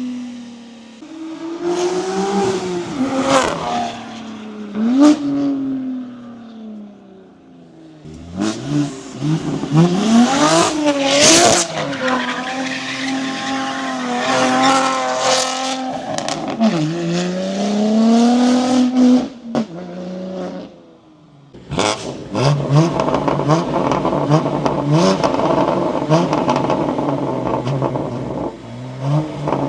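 BMW G80 M3's S58 twin-turbo straight-six through an aftermarket equal-length X-pipe catback and 3.5-inch downpipes, revving and pulling hard in several short clips, its pitch climbing and falling. Near the end it rises in a quick run of short notes, one gear after another.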